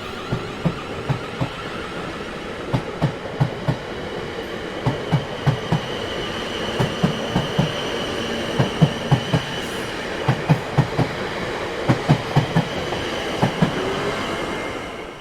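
Train wheels running over rail joints: a steady rumble with repeated clickety-clack knocks in quick pairs and groups, and a faint high whine through the middle. It drops away suddenly at the very end.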